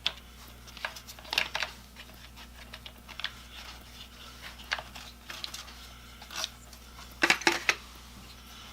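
Irregular light clicks and knocks of hard objects being handled, in small clusters, loudest about a second and a half in and again near the end, over a steady low electrical hum.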